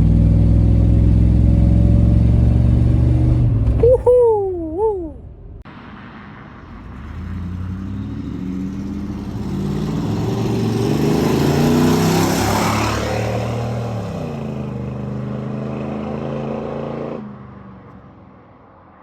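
A vehicle engine running loudly with a deep, steady note. About four seconds in it cuts out, a short high wavering squeal follows, and then an engine is heard accelerating, its note rising and then falling away before dropping off sharply near the end.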